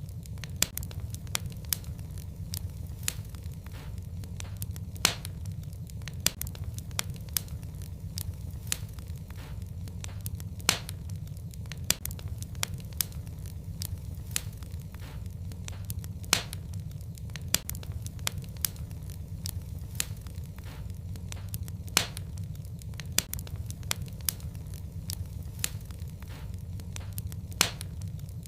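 Fireplace fire crackling, with irregular sharp pops and snaps, a few of them louder, over a steady low rumble.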